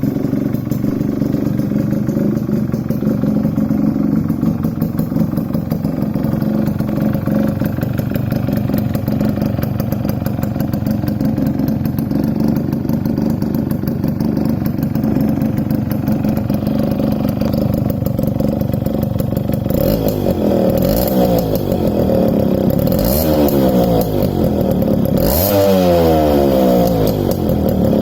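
Suzuki Max 100's single-cylinder two-stroke engine running through a loud exhaust, idling steadily, then revved several times from about two-thirds of the way in, its pitch rising and falling with each blip.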